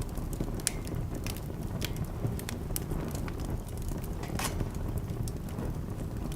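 Wood fire crackling, with irregular sharp pops over a steady low rumble of the burning logs; one longer, louder pop about four and a half seconds in.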